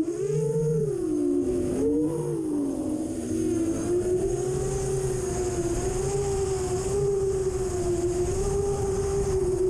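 Motors of an iFlight XL7 FPV quadcopter whining, the pitch swinging up and down with throttle, over a low rumble.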